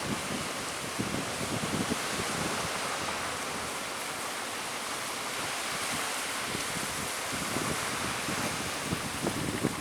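Strong wind and surf at sea: a steady rush of wind and breaking water, with wind buffeting the microphone in gusts near the start and the end.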